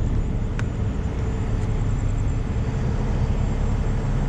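Heavy truck engine idling steadily, with a light click about half a second in.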